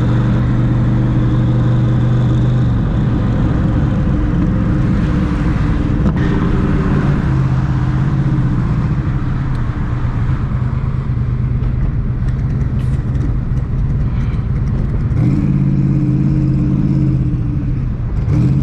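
Twin-turbo Mustang Cobra engine running at a steady cruise with road noise. The engine note wavers and fades from about three seconds in, then settles back to a steady drone near the end.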